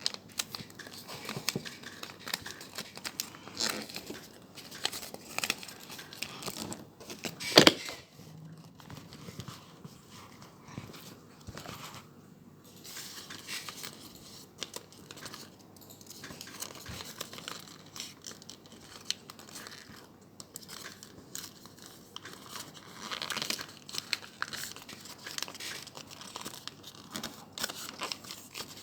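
Paper being handled and folded by hand: irregular crinkling and rustling, with one louder sharp crackle about seven and a half seconds in.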